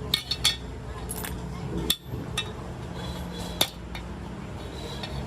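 Scattered sharp metallic clinks and taps, about six of them, from metal parts and hand tools being handled on a workbench, over a steady low machine hum.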